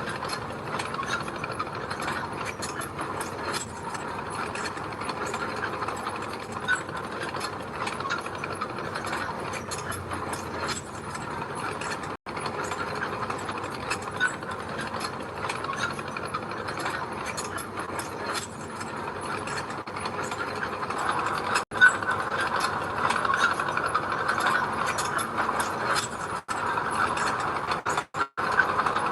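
Mini bulldozer at work: a steady clanking, ratcheting clatter of steel crawler tracks over the running engine, growing louder and harsher over the last several seconds and breaking off briefly a few times.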